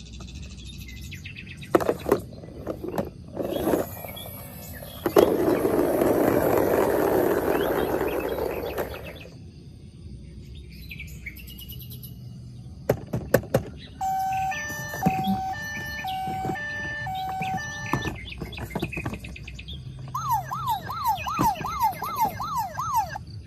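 Electronic sounds from battery-powered toy vehicles: a few sharp clicks, a hiss lasting about four seconds, then a beeping electronic tune, and near the end a fast warbling toy siren.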